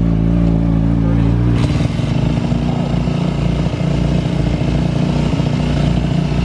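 Dirt bike engine running: steady at first, then about a second and a half in its sound turns rougher and choppier.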